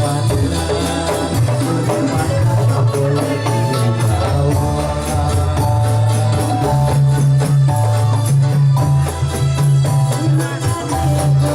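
Live Dolalak dance music: a steady beat of hand drums and jingling tambourine-like percussion over a pulsing bass line, with a melody on top.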